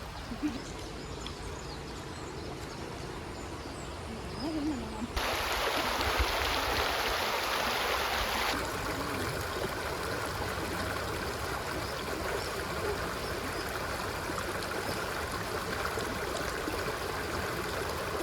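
River water flowing steadily over a shallow bed. About five seconds in, the rushing suddenly gets louder and brighter for three or four seconds, then drops back to a steady flow. A few short, low calls rise faintly above it now and then.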